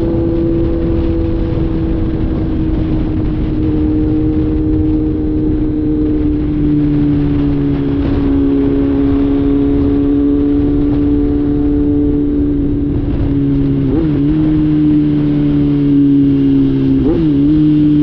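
Kawasaki Z900 inline-four motorcycle engine with the catalytic converter deleted, running at a steady engine speed, its exhaust note sinking slowly in pitch. Near the end the note twice dips briefly and picks back up.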